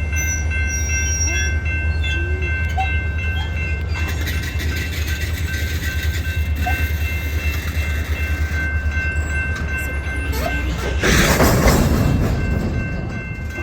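Diesel locomotive running, a DeQueen and Eastern EMD GP40-2, with a steady deep engine rumble and several steady high-pitched tones over it. About eleven seconds in, a loud burst of hiss rises over the engine for a second or so, then fades.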